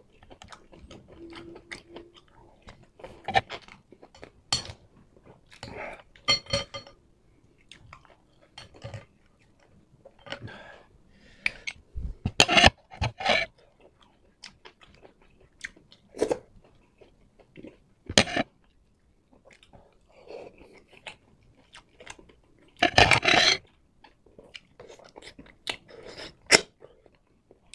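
Close-miked chewing and crunching as a man eats rice and bamboo shoots in coconut milk by hand, in irregular short mouthfuls, loudest about twelve seconds in and again about twenty-three seconds in.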